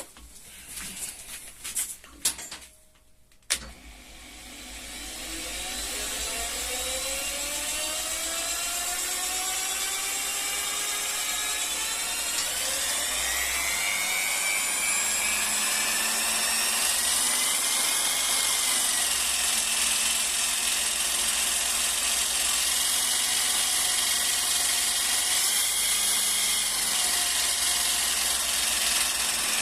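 Electric drill spinning the shaft of a 380 V three-phase induction motor wired with capacitors as a generator. After a few clicks, the drill and motor spin up with a whine rising in pitch and loudness over about ten seconds, then run steadily at high speed.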